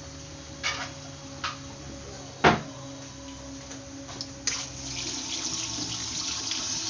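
Kitchen sink tap running, with a few light clicks and one sharp clack about two and a half seconds in. The water gets louder from about halfway through.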